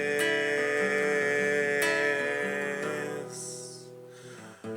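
Acoustic guitar strumming chords between sung lines. The chord rings and fades away in the second half before a new strum comes in at the end.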